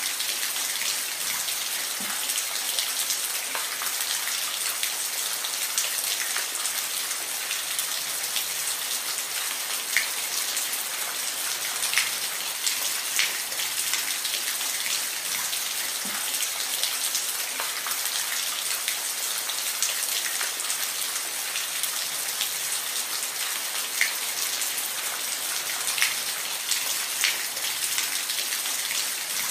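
Steady rain falling, a constant hiss with scattered louder drops ticking on a surface.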